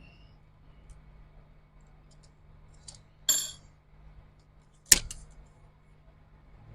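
Small metal objects handled on a workbench: a bright metallic clink with a short ring a little over three seconds in, then a sharp click near five seconds, over a low steady hum.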